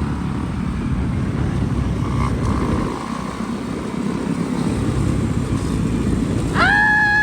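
Dirt bike engine running while being ridden, with heavy rumble and wind noise. Near the end, a loud pitched sound rises and then holds.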